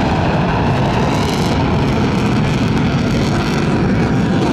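F/A-18 fighter jet's twin jet engines heard from the ground during a flying display: a loud, steady, rushing noise, heaviest in the low range.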